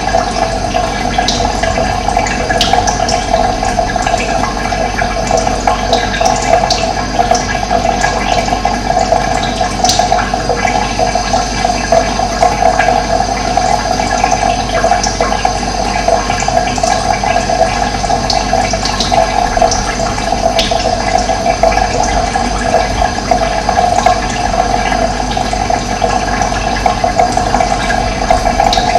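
Running water, a steady loud rushing, with occasional short bird chirps over it.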